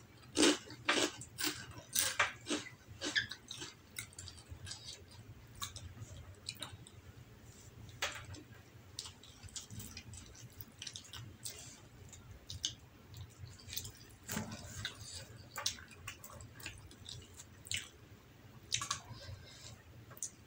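Close-up chewing and wet mouth clicks of someone eating white rice and scrambled egg by hand, busiest in the first few seconds and then scattered, over a faint low steady hum.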